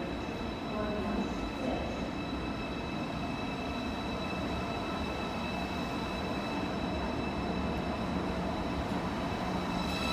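A train running through a station: a steady rumble of wheels on rail with high, steady whining tones above it, getting louder near the end.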